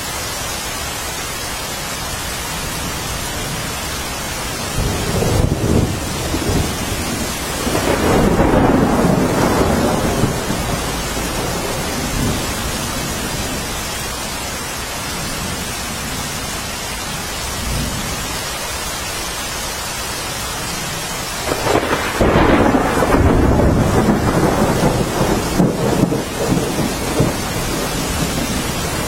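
Steady rain with two long rolls of thunder, the first about five seconds in and the second about twenty-one seconds in, each rumbling on for several seconds.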